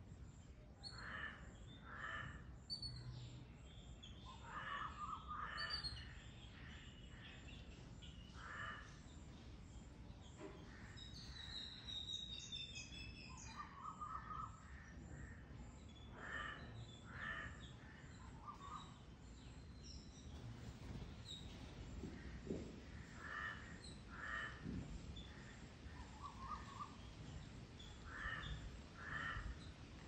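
Birds calling: a short two-note call repeated in quick pairs every few seconds. Near the middle there is a brief run of higher chirps from another bird.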